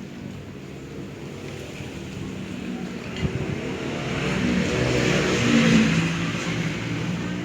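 A motor vehicle's engine passing by: it grows louder to a peak about five to six seconds in, then fades. There is a single sharp knock just after three seconds.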